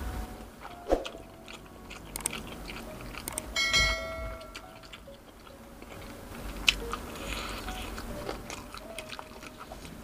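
Close-miked chewing and biting of street food, squid balls bitten off a bamboo skewer, with wet mouth clicks scattered throughout. A short ringing tone sounds about four seconds in.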